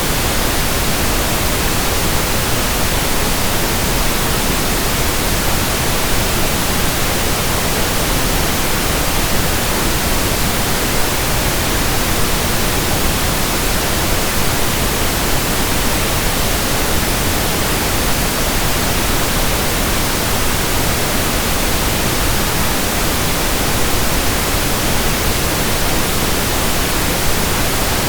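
Steady pink noise: an even, unbroken hiss spread across the whole range, with no rhythm or change.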